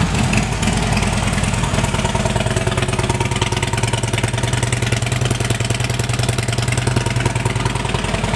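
2009 Harley-Davidson Street Glide's 96 cubic inch V-twin idling steadily through Rinehart exhausts, just after being started, with an even low pulsing beat.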